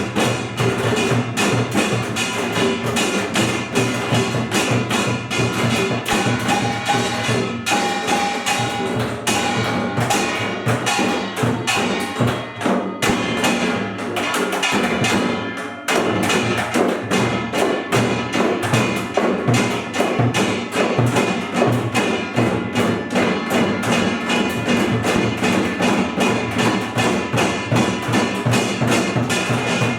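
Korean pungmul percussion ensemble playing: kkwaenggwari small gong, buk barrel drums and janggu hourglass drums struck together in a fast, continuous rhythm. About halfway through the playing dips for a moment, then goes on with denser strokes.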